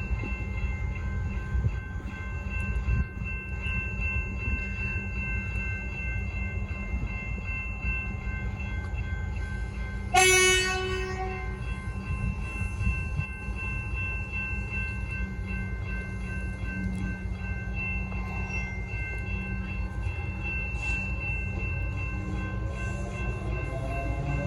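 Melbourne suburban electric train at a level crossing: a steady low rumble with constant high tones, one short horn blast about ten seconds in, and a whine rising in pitch near the end as the train's motors pick up speed.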